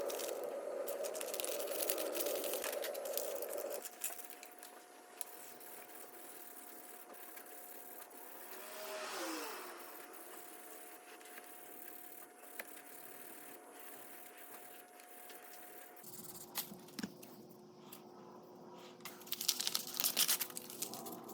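Hand rubbing on a small metal tool for about four seconds, then quieter scattered clicks and scrapes, ending in a quick run of rattling clicks.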